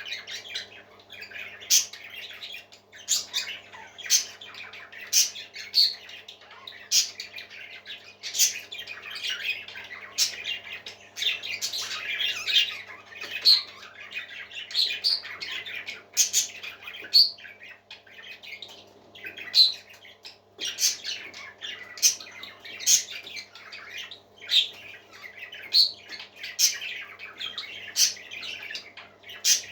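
Parrots squawking in short, sharp calls, about one a second, over a steady low hum.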